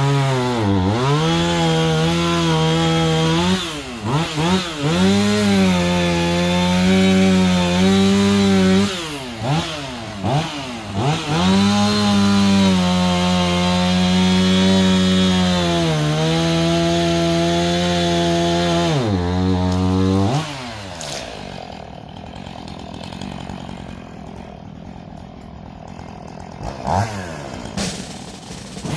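Gas chainsaw running at high revs, its pitch dipping and recovering again and again as it bites into a tree trunk under load. About twenty seconds in the saw winds down and the rest is much quieter.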